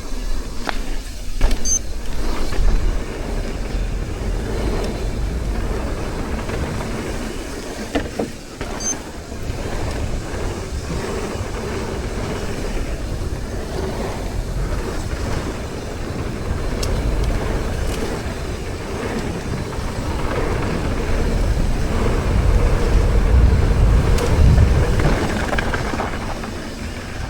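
Mountain bike rolling along a dirt trail, heard from a camera on the rider: a steady rush of wind on the microphone with tyre rumble and occasional rattles and clicks, swelling as the bike picks up speed near the end.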